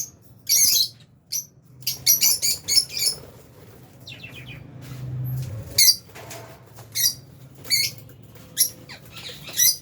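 Lovebirds, albino and Fisher's, chirping in an aviary: short, sharp, high-pitched chirps, some in quick runs of several.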